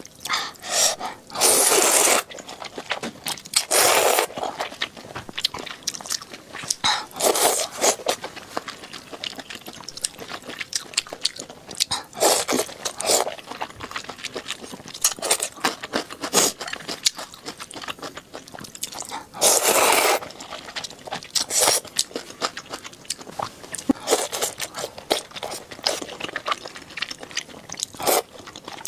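Close-miked eating: chewing and biting food, with a loud crunch every few seconds among quieter crackly clicks.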